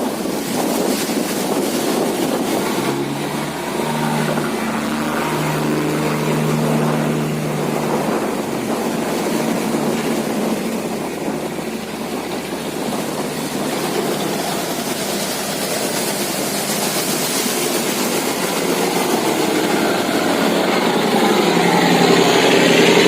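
Boat engine running as the boat passes through the sluice gate: a steady pitched hum, strongest a few seconds in and louder again near the end, over a steady rush of noise.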